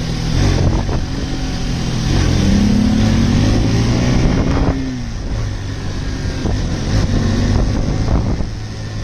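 Motorcycle engine running under way, with wind and road noise. About two seconds in, the engine note rises steadily as it accelerates, then drops sharply near the five-second mark as the throttle is let off or a gear changes.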